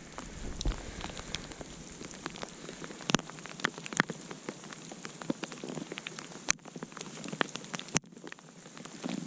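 Newly lit wood campfire crackling as it catches: a dense patter of small snaps, with a few louder pops about three, six and a half, and eight seconds in.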